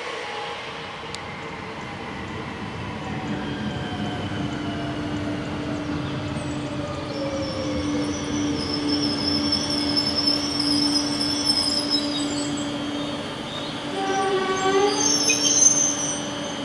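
Double-deck electric regional train slowing as it comes in: a motor whine falling in pitch over rolling wheel noise, with a high brake squeal midway. Near the end a short, louder pitched sound rises over it.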